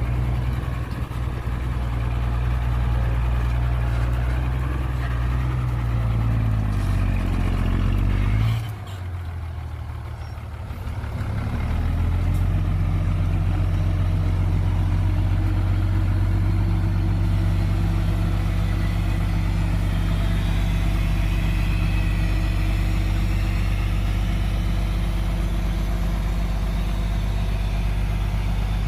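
Heavy diesel engine of earthmoving machinery running hard. It eases off sharply about eight and a half seconds in, comes back up around twelve seconds, and then runs steady.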